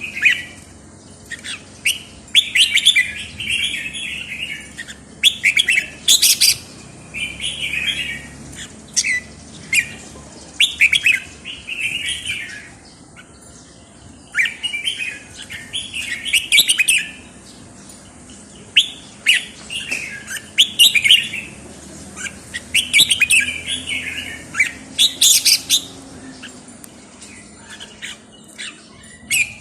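A songbird singing short, loud phrases, one every second or two, with sharp high clicks between them.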